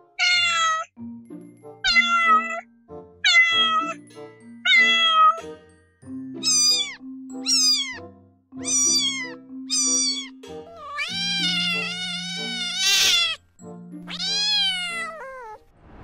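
Kitten meowing repeatedly over background music: four short falling meows, then four higher rising-and-falling meows, then two long drawn-out meows near the end.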